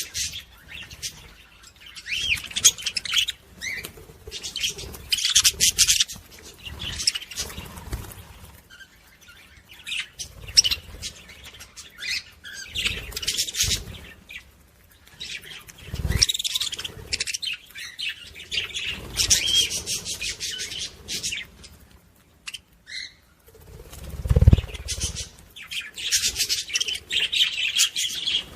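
Small pet parrots chirping and chattering in repeated bursts, with wing flutters and a couple of low thumps about halfway through and near the end.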